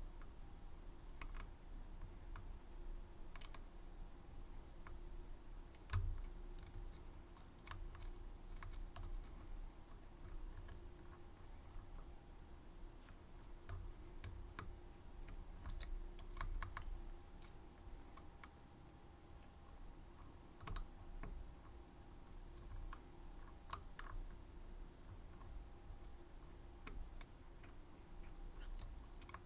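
Scattered light clicks and taps of small metal tools working a Medeco M3 lock cylinder, at an irregular pace with a few sharper knocks.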